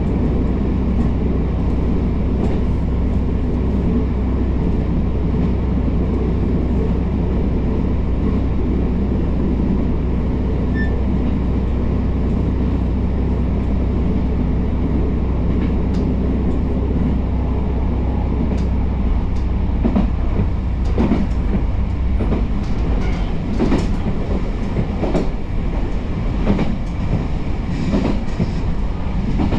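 Kyoto Tango Railway diesel railcar running along the line with a steady low engine drone. From about two-thirds of the way through, the regular clack of the wheels over rail joints joins it, about one every second and a half.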